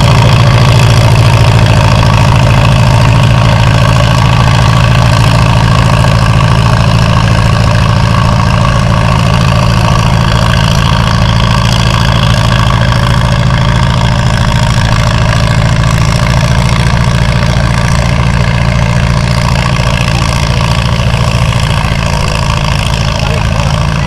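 Cockshutt 30 tractor's four-cylinder engine running loud at a steady speed, slowly growing fainter over the stretch.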